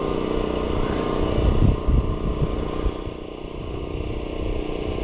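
An engine running steadily at idle, with a few low thumps about one and a half to two seconds in and a faint high hiss that dies away about three seconds in.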